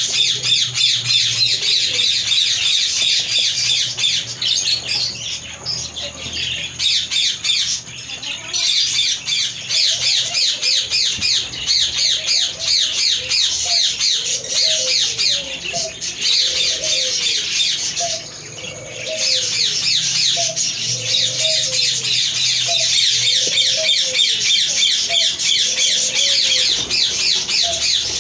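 Parrots chattering and squawking nonstop in dense, rapid, overlapping high calls, with a brief lull a little past halfway. A lower, arched call repeats about once a second from about ten seconds in.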